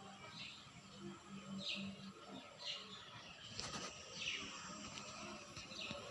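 A bird calling: short high notes that fall in pitch, repeated about once a second.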